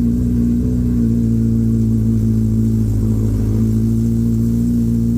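Suzuki Hayabusa's inline-four engine idling steadily.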